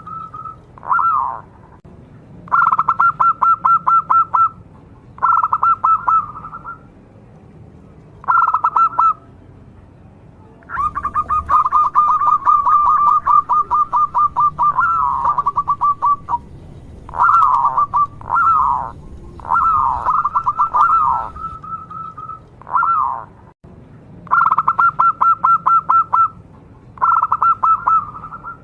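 Local zebra dove (perkutut) cooing loudly in repeated bouts of rapid, staccato trilled notes. A long unbroken bout comes near the middle, and some notes swoop downward between bouts.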